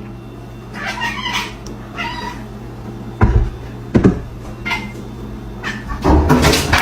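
A cat meowing several times in short calls, with two dull thumps in the middle and a loud burst of noise near the end.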